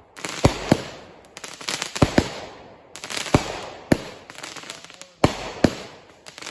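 Fireworks going off in rapid succession: groups of one or two sharp bangs about every second, each group rising out of a hissing rush that fades before the next.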